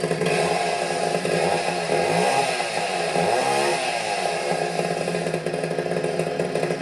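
Freshly rebuilt McCulloch CP125 two-stroke chainsaw running just after starting up. Its engine speed dips and rises about halfway through.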